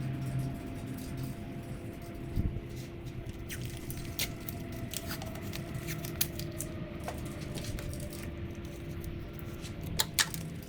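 Scattered light clicks and rustles of hands working on a car's wiring harness, with two sharp clicks close together near the end, over a steady low hum.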